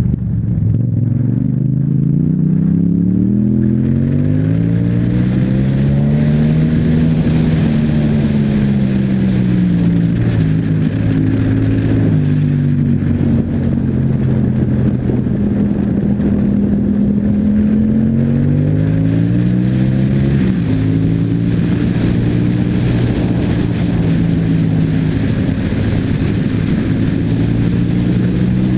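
Yamaha MT-07's parallel-twin engine through an Akrapovic exhaust while riding. It revs up over the first several seconds, eases off and holds a steady cruise. It revs up again about two-thirds of the way through, drops suddenly at a gearchange, then runs steady, with wind rushing over it.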